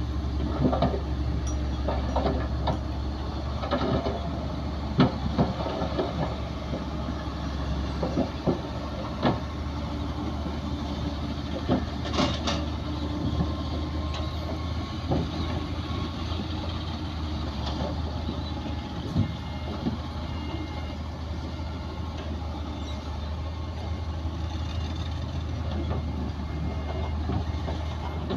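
Heavy diesel earthmoving machinery running steadily with a low drone, with irregular knocks and clanks over it.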